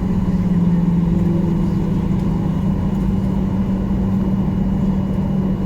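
Steady cabin drone of a Boeing 737-800's CFM56 jet engines and airflow: a constant low hum over broad rumble.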